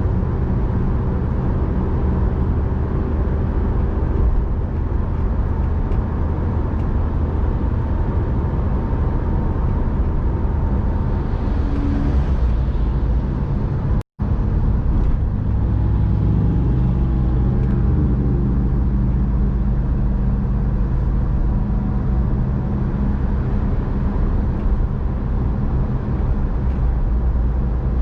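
A car being driven, with steady engine drone and road noise. The sound cuts out for an instant about halfway through, and the engine note changes a couple of seconds later.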